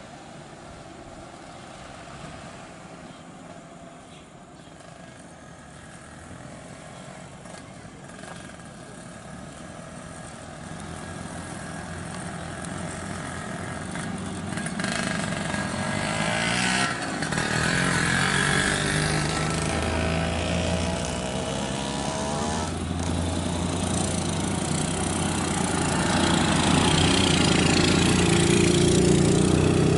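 A motor vehicle's engine running and growing steadily louder, with its pitch shifting around the middle.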